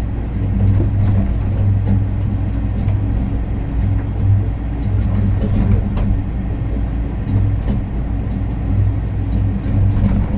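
Skyrail suspended people-mover car running: a steady low mechanical hum with a few faint clicks scattered through it.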